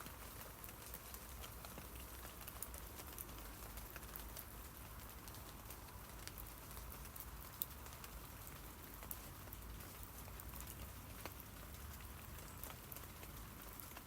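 Rain falling on tree leaves: a steady patter of many small drops over a faint low rumble, with one sharper drop about seven and a half seconds in.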